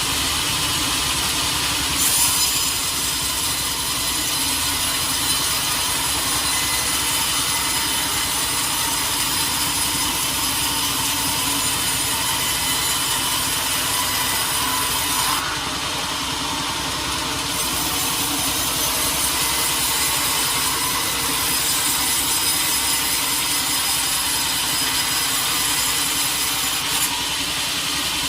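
Sawmill blade cutting through a large teak log, a steady hissing rasp over the mill's running engine. The cut bites in about two seconds in, eases off briefly around the middle, then carries on.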